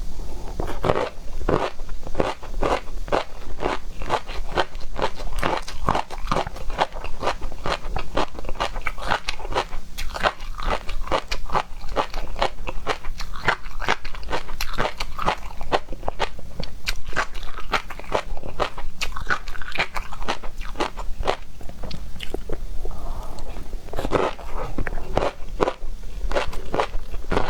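Mouth eating sounds of a person chewing and biting into seafood: a rapid, irregular, unbroken run of clicks and smacks.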